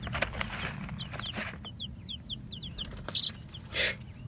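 Chicks peeping: a rapid run of short, high cheeps, several a second. Brief rustling scuffs come between them, the loudest about three seconds in and again near the end.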